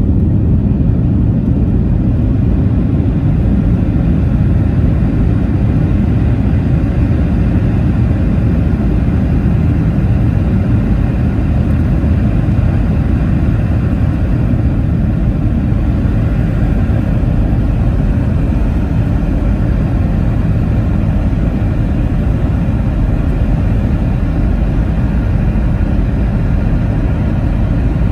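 Steady low cabin rumble inside a Boeing 717, from its engines and the airflow, holding even throughout with no sudden events.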